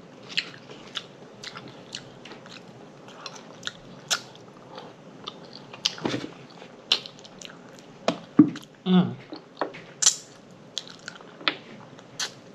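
A person chewing and smacking their lips close to the microphone while eating, in irregular wet clicks and smacks. A couple of louder smacks come about 8 and 9 seconds in.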